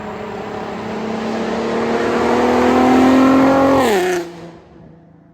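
Infiniti Q50's 3.7-litre V6 through an aftermarket exhaust of resonated test pipes, 3-inch Y-pipe and mid pipe, and a Helmholtz axle-back, accelerating past with the revs climbing and getting louder. About four seconds in the pitch drops sharply and the sound falls away to a lower, steady tone that fades as the car moves off.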